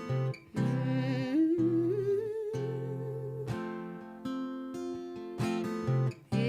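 Acoustic guitar strumming the intro of a slow song, with a woman's wordless hum that climbs in pitch with a wavering vibrato about a second in.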